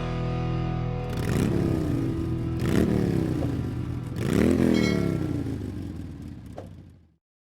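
Harley-Davidson Dyna Super Glide V-twin engine revved three times, each blip of the throttle rising and falling in pitch, then fading out about seven seconds in.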